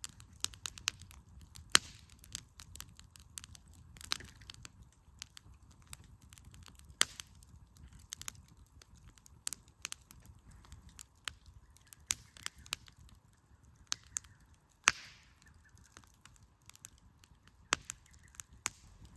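Wood campfire burning in a fire-pit stand, crackling with irregular sharp pops and snaps of the burning logs. One of the louder pops, about fifteen seconds in, is followed by a brief hiss.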